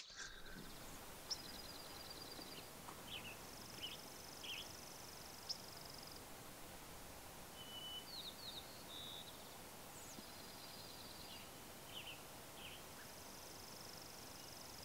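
Several wild birds singing and calling over a steady background hiss: high, rapid trills lasting a second or two, mixed with short chirps and quick sweeps scattered throughout.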